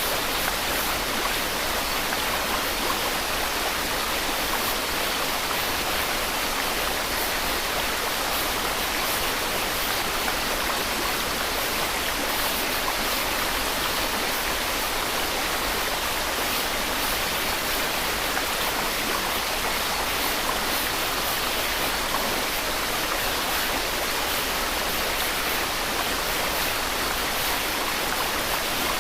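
Steady white noise: an even, unbroken hiss with no changes in level or pitch.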